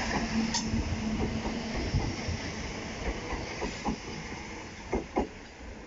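12-car Greater Anglia Class 321 electric multiple unit pulling out of the station: a steady rumble of wheels on rail with scattered clicks, and a steady hum in the first couple of seconds. The sound fades as the train moves away.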